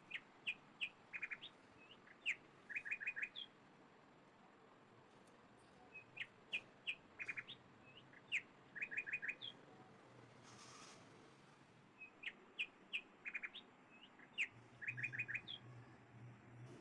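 Bird chirping: the same short phrase of quick chirps and rapid trills repeats about every six seconds. A faint low hum comes in near the end.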